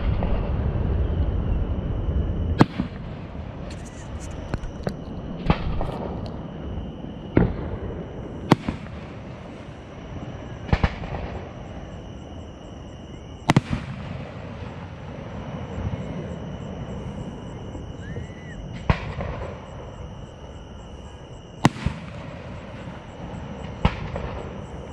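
Fireworks display going off: about nine sharp bangs two to three seconds apart, with low rumbling and crackle between them.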